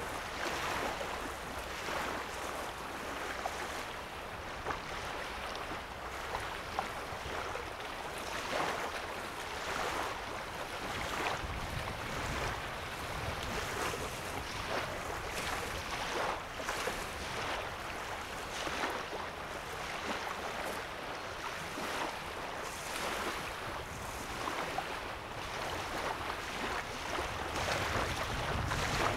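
Small lake waves lapping at a sandy shoreline: irregular soft splashes every second or two over a steady wash of water, with a low rumble of wind at times.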